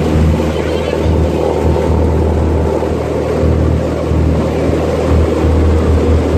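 Cessna 172 light aircraft's piston engine and propeller running in a loud, steady drone.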